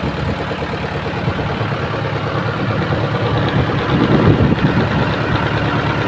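Tractor engine running steadily while driving a PTO-powered water pump, with a slightly louder stretch about four seconds in.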